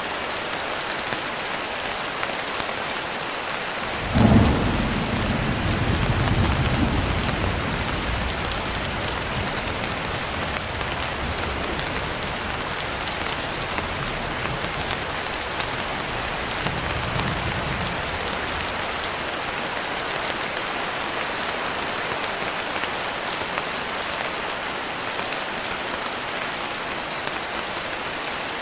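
Steady heavy rain falling, with a thunderclap about four seconds in that rumbles on for several seconds, and a fainter roll of thunder a little past the middle.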